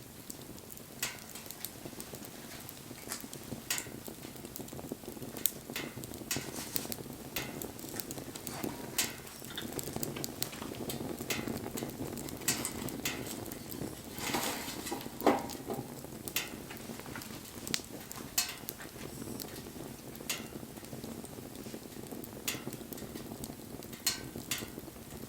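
Wood campfire burning, crackling and popping irregularly over a low steady rush of flame, with one louder pop about fifteen seconds in.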